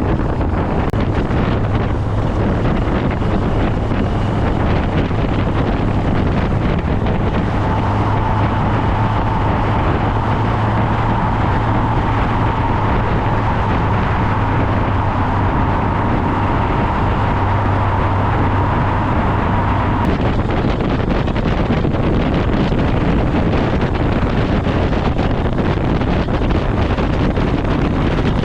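Motorcycle on the move: wind rushing hard over the microphone, with the bike's engine heard underneath. From about 8 to 20 seconds in, a steady engine hum with a higher tone stands out, as if held at a constant speed.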